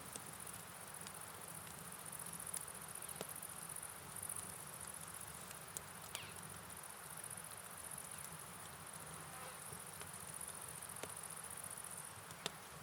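Crickets trilling in a steady high chorus over an even hiss of rain and river water, with a few scattered faint ticks, the sharpest near the end.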